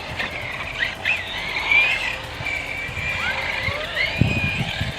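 Electric RC car driving on concrete, its motor whining higher and lower as it speeds up and slows. A low thump about four seconds in.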